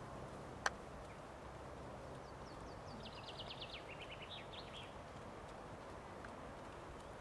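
A small songbird singing one rapid trill of short high notes, about two and a half seconds long, that steps down in pitch and ends in a brief flourish. A single sharp click sounds just under a second in, the loudest moment.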